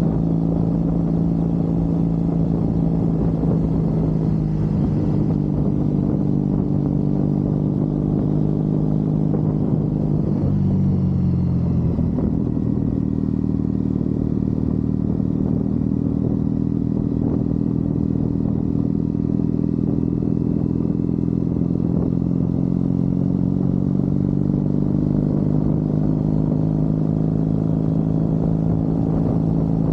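Triumph Bonneville parallel-twin engine running steadily under way. About ten seconds in, the engine note drops, then climbs slowly again near the end.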